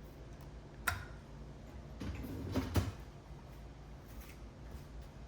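A dishwasher being opened: a latch clicks about a second in, then a sliding, rattling stretch ends in a sharp knock near the three-second mark, as of the door dropping open and a rack rolling out.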